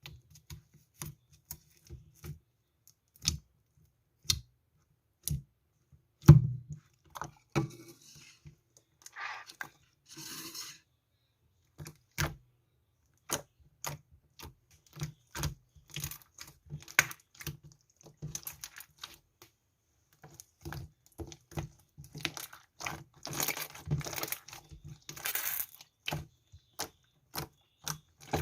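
Irregular small taps and clicks of handling something at close range, with short spells of rustling or tearing about nine seconds in and again near the end.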